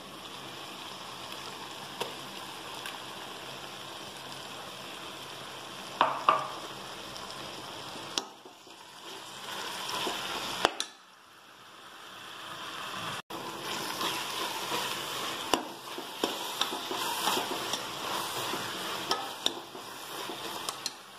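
Vegetables and freshly ground green masala paste frying in a pressure cooker pot, a low steady sizzle, while a metal ladle stirs and now and then knocks against the pot.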